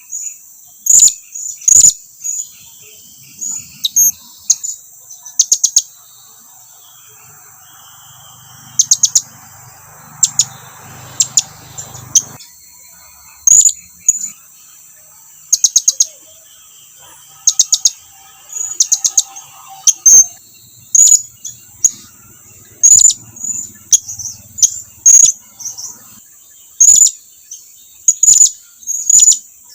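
Blue-crowned hanging parrot (serindit) giving sharp, very high-pitched calls, singly and in quick runs of three to five notes, every second or two: contact calls that draw other birds closer.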